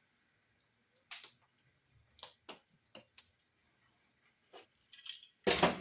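Irregular clicks and light knocks of hand tools and wires being handled at an outlet box, about a dozen of them starting about a second in, with the loudest one near the end.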